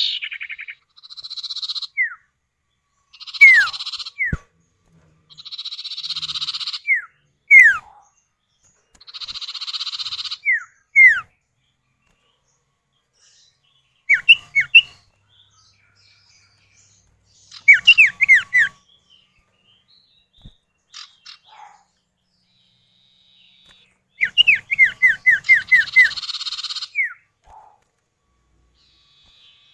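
Sirtu (cipow) birds, male and female calling back and forth: short harsh buzzy chatters alternate with quick down-slurred whistled notes, with gaps between phrases. A fast run of down-slurred notes comes near the end.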